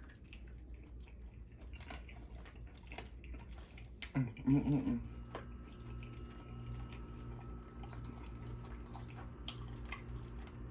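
Close-miked chewing of steak, with small wet mouth clicks and smacks, and a brief hummed voice sound about four seconds in.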